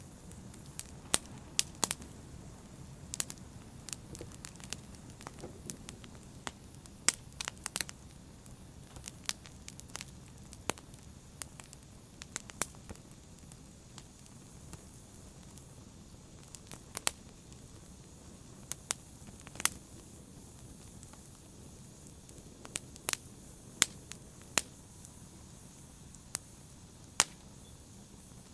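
Wood fire burning in a fireplace: a steady soft rustle of flame with irregular sharp crackles and pops, several of them loud.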